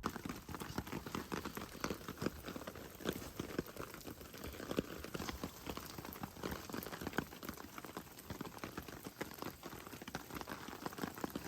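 Steady rain pattering in a dense, continuous patter of many small drops.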